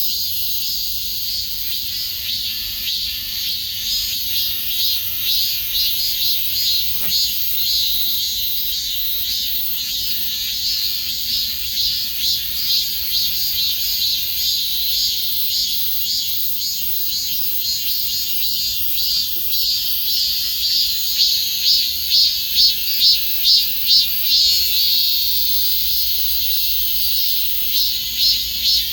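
Cicadas singing: a loud, high-pitched buzzing chorus that breaks into a rapid pulsing rhythm of about two pulses a second near the end.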